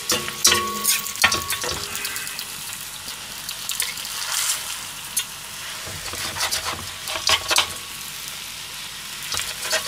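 Okonomiyaki (cabbage, pork and egg) sizzling steadily in a frying pan while metal spatulas scrape and clatter against the pan as it is shaped and turned. The scrapes come in short clusters: near the start, midway and just before the end.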